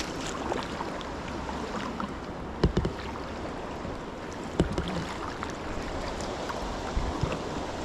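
Kayak moving on a river: a steady rush of moving water, broken by a couple of sharp knocks, one near the third second and another about two seconds later.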